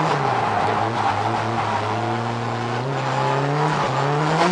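A car's engine heard from inside the cabin on a track run. Its note dips a little, holds low, then climbs in pitch over the last couple of seconds as the revs rise, over a steady rush of noise.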